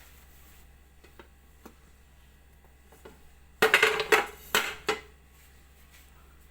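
Cake tin and serving plate knocking together as a freshly baked cake is turned out: a few light clicks, then about three and a half seconds in a loud burst of clattering knocks with a short metallic ring, lasting just over a second.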